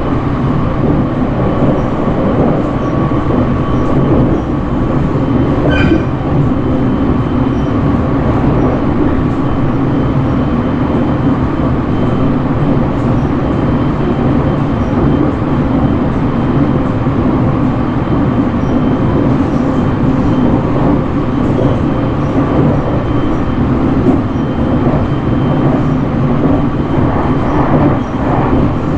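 285-series Sunrise Izumo sleeper train running at speed: a steady rumble of wheels on rails and running gear, with a brief high squeak about six seconds in.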